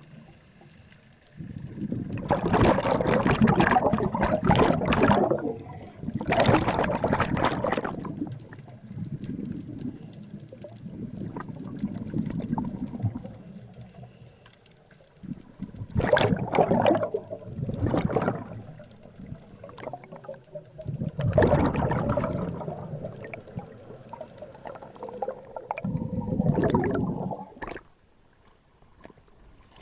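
Water bubbling and gurgling around the camera in several irregular bursts, each lasting a second or more, with quieter water noise between them.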